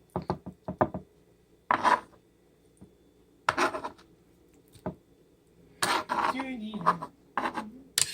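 Kitchen utensils knocking and scraping on a plate and cutting board, in several short separate bursts: a quick run of taps at the start, then single clatters and a longer scraping stretch near the end.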